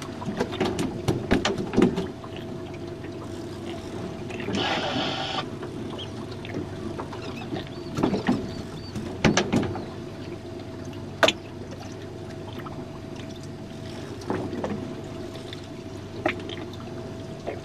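A steady motor hum on a small boat, with water splashing and trickling and scattered sharp knocks. A brief rush of spray-like noise comes about five seconds in, and the loudest knock about eleven seconds in.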